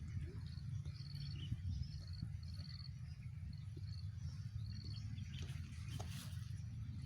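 Outdoor ambience: a steady low rumble with short, high-pitched chirps repeating through it, insect-like, and a few faint clicks.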